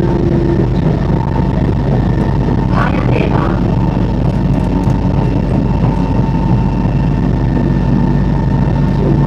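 Singapore MRT train heard from inside the carriage while running on the elevated track: a steady low rumble with a constant thin whine from the drive equipment. A short higher sound cuts through about three seconds in.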